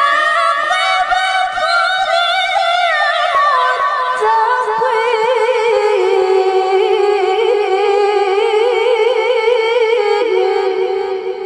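A woman's voice in Quran recitation (tilawah), drawing out one long melismatic phrase in a high, clear register with quick ornaments. It steps down in pitch about three and then six seconds in, and fades away near the end.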